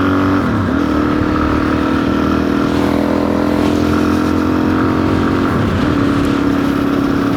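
Suzuki DR-Z400's single-cylinder four-stroke engine running at a steady pace under way. Its note dips briefly twice, about half a second in and near six seconds in, then settles back.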